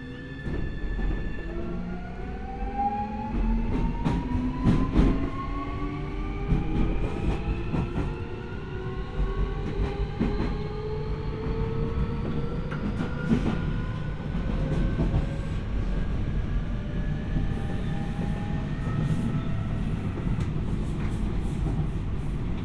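Keio 1000 series train (3rd batch) accelerating: the VVVF inverter and traction motors give this batch's distinctive low-pitched asynchronous whine, several tones rising steadily in pitch and fading out near the end. Wheels on rail rumble underneath, with scattered clicks from rail joints.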